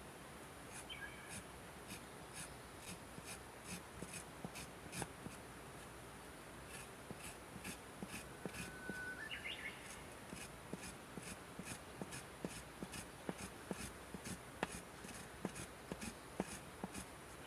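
Wood campfire crackling: irregular sharp pops and ticks, growing denser in the second half, with two brief faint chirps, one about a second in and a short rising one near nine seconds.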